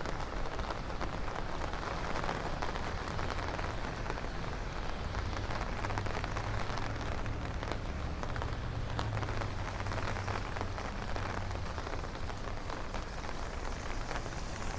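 Steady rain falling on a city street, with a low, steady rumble underneath.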